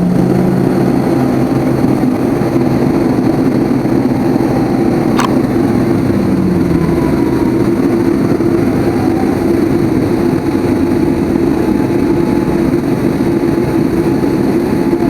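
Steady loud jet airliner engine noise with a low droning hum, from a Boeing 787-8.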